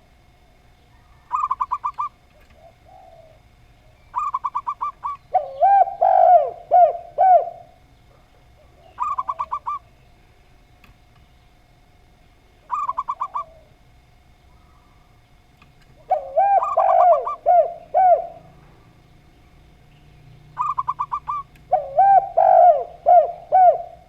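Zebra dove and spotted dove calling in turn. Short, fast trilled phrases alternate with phrases of about four lower coos that bend in pitch. The coo phrases come three times, each just after a trill.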